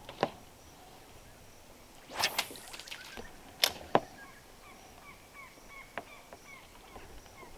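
Fishing tackle being handled and cast from the boat: a short whoosh about two seconds in, with sharp clicks and knocks scattered around it. Faint chirps repeat in the background during the second half.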